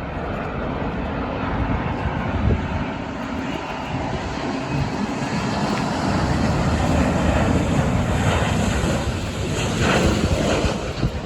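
Jet airliner's engines passing close by at an airport, a dense rumble growing steadily louder to a peak near the end, with a rising hiss on top.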